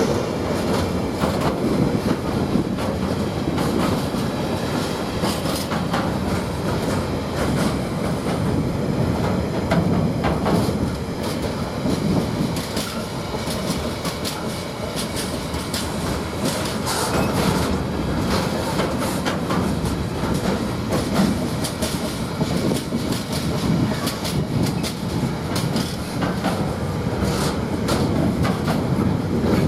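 A long intermodal freight train of container wagons rolling steadily past, with a continuous rumble and rapid wheel clicks and knocks over the rail joints.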